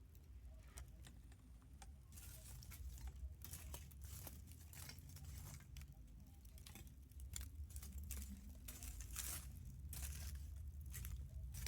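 Wood campfire crackling: irregular snaps and pops from the burning wood, sparse at first and coming thicker after about two seconds, over a low steady rumble.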